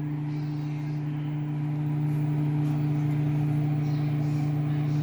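Microwave oven running with a steady hum, its magnetron and fan droning evenly and getting slightly louder about two seconds in, as a mug cookie cake cooks inside.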